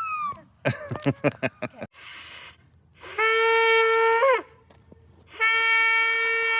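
A lip-blown horn sounded by mouth: a few quick sputtering false starts about a second in, a short breath, then two steady held notes, the first ending with a quick upward crack in pitch.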